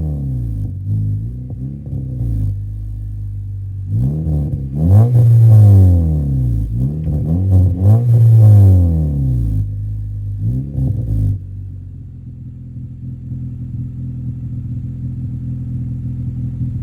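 A 2013 Honda Civic Si's four-cylinder engine is revved through the new Invidia N1 catback exhaust, its silencer insert not yet fitted: a string of quick throttle blips, each rising and falling back. About eleven seconds in the revving stops and the engine settles to a steady idle.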